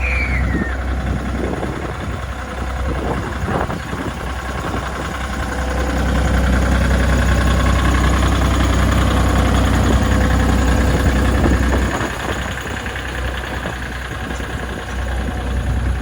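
Miniature railway locomotive's engine running steadily with a deep hum, growing louder for several seconds in the middle before easing back. A short falling high note sounds right at the start.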